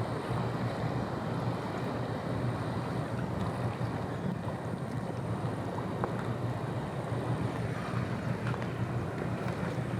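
Steady low drone of a ship's engines, with wind on the microphone.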